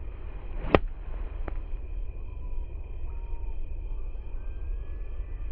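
A single sharp click about a second in, then a fainter one shortly after, over a steady low rumble and a faint steady high-pitched insect-like drone.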